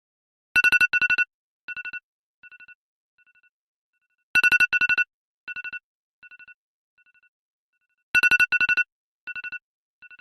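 Meme sound effect of a high electronic ringing tone in rapid pulses. Each time it comes as two loud bursts followed by three fading echoes. It plays three times, about every four seconds.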